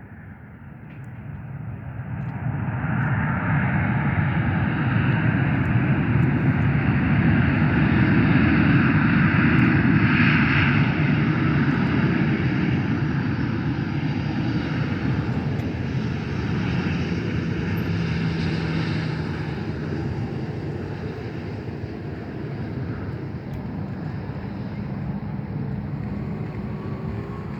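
Airliner's engines passing close: a deep rumble with a hiss above it that swells over the first few seconds, is loudest about a third of the way in, then slowly eases off.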